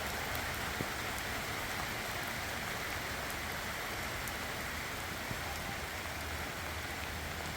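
Heavy rain falling steadily, a constant hiss of drops on the ground with scattered faint drip ticks.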